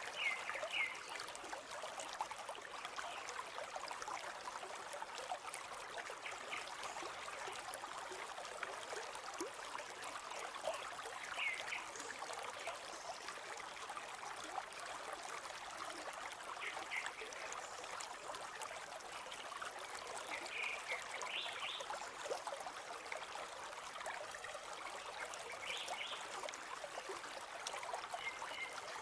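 River water flowing with a steady rush and trickle, with a few short high bird chirps now and then.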